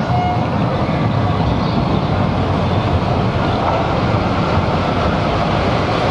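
Small local passenger train pulling into the station, making a steady rumble as it approaches. The end of its horn sounds in the first half second.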